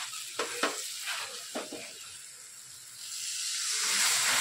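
A metal masher clinks against a steel kadai a couple of times, then about three seconds in a loud sizzle rises as a little water hits the hot masala of onion, capsicum and tomato frying in butter.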